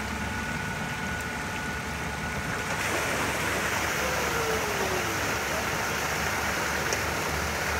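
Steady rushing of water pouring and streaming off a truck as it is dragged out of the water, over a vehicle engine running. The rush grows louder about three seconds in.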